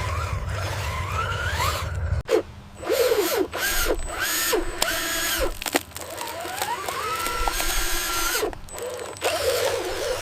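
Small electric gear motors of a radio-controlled construction toy whining as they run, rising and falling in pitch and starting and stopping several times. A low rumble underneath stops about two seconds in.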